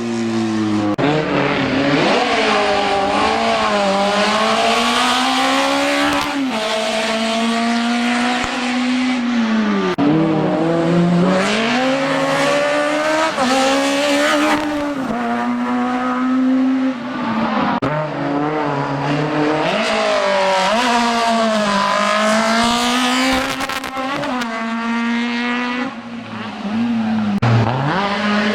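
Race car engine revving hard and falling back again and again, with sudden drops in pitch at gear changes and lifts, as the car accelerates and brakes between slalom chicanes.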